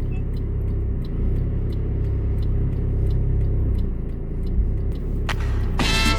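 Steady low rumble of a car driving on the road. Music with guitar comes in near the end.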